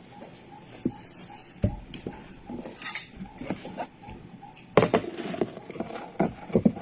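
Cutlery clinking and scraping against a plate or bowl in irregular knocks, with a louder clatter about five seconds in.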